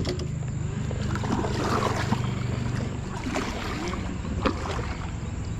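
Kayak on the water: a steady low hum under a noisy wash, with a few small knocks.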